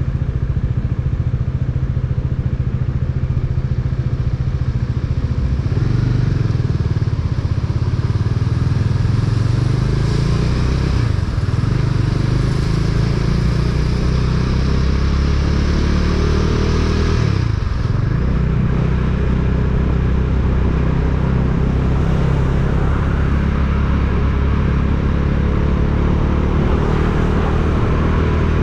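A motor vehicle's engine running steadily on the move, with a brief drop in revs and pick-up again about seventeen seconds in.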